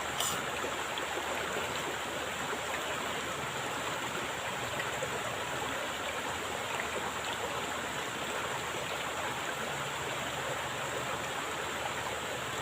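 Steady rushing of a flowing stream or river current, with one brief click just after the start.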